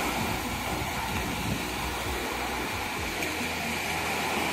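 Steady rushing noise of ocean surf at the beach.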